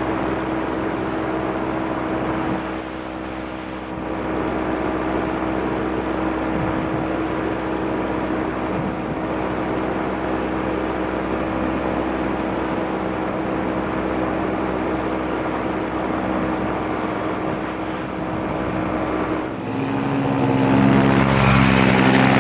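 Paramotor engine and propeller running at a steady speed, with air noise over it. About 20 seconds in the note changes and grows louder, its pitch rising as the throttle opens.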